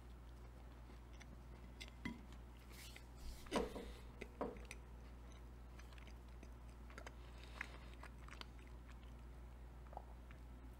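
A person biting into and chewing a Pop-Tart toaster pastry. It is faint, with a few louder crunches between about two and four and a half seconds in.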